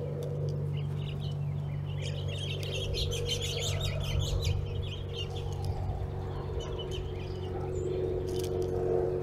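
Small backyard birds chirping and twittering, with a busy run of quick high calls from about two to five seconds in, over a steady low hum.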